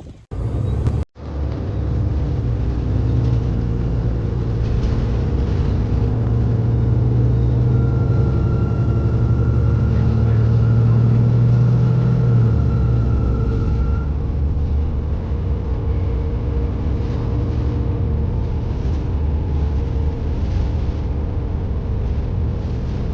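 A motor running with a steady low rumble, a stronger hum in the middle joined by a steady high-pitched tone that stops a little later. The sound cuts out briefly about a second in.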